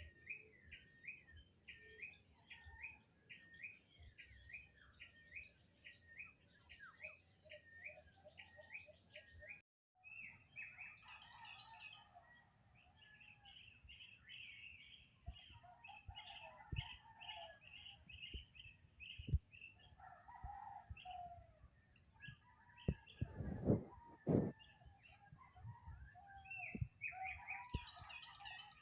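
Tropical birds calling: for the first ten seconds one bird repeats a short call about twice a second, and after a brief dropout many birds chirp together over a steady high-pitched hum. A few dull low thumps come about two thirds of the way in.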